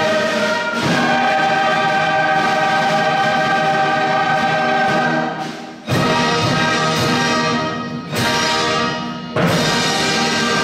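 Choir with orchestra performing, holding long full chords. The sound dips and a new loud chord strikes about six seconds in, and again near the end.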